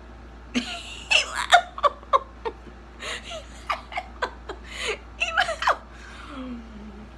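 A person laughing hard in a quick string of short bursts, stopping about six seconds in.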